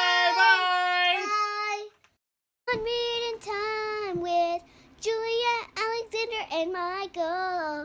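Children singing in high voices, holding long notes at first. They break off about two seconds in, and after a short silence start again with a run of short sung phrases that slide up and down in pitch.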